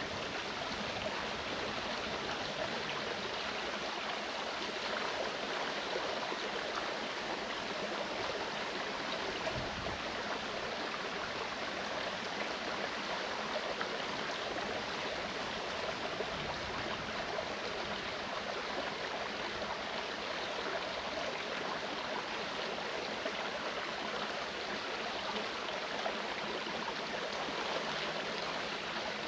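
Clear mountain creek running, a steady, even rush of water.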